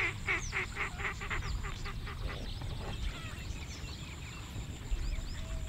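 A bird calling a quick run of about a dozen notes, some five a second, that fade out over the first two seconds, with other small birds chirping throughout and a low rumble of wind on the microphone.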